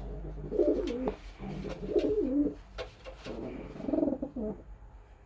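Racing pigeon cooing: three low, wavering coo phrases in a row, the last one the longest.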